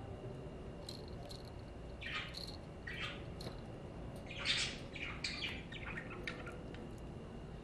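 Budgerigars chirping and chattering in short, scattered calls, busiest through the middle, with the loudest call about four and a half seconds in.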